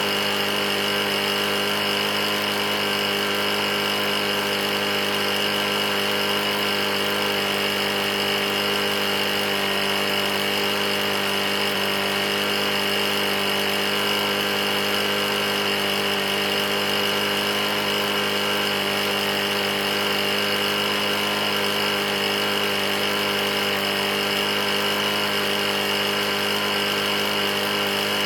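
Briggs & Stratton E450 mower engine running at a steady, unchanging speed. The engine has a bad knock from running low on oil.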